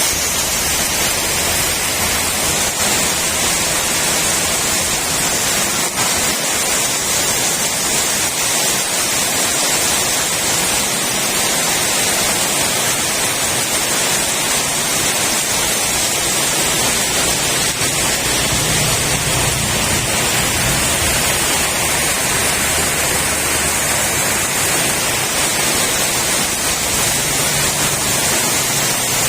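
Heavy rain pouring down in a loud, steady hiss, with strong wind gusting over the microphone as a low, uneven rumble that swells briefly about two-thirds of the way through.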